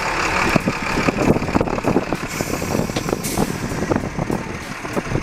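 Safari game-drive vehicle driving on a rough track: its engine running under a rumble and many irregular knocks and rattles.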